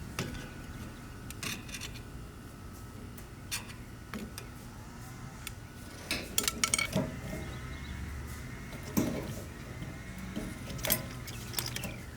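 Metal parts of a fuel pump and sending unit assembly being handled, giving scattered clicks, clinks and light knocks with some rubbing, a busier cluster of them a little past the middle.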